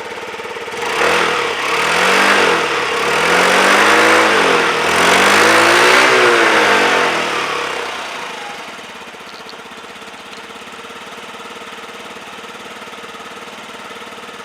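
2012 Yamaha Vino scooter engine idling, then revved up and back down three or four times with throttle blips before settling back to a steady idle; it runs smoothly.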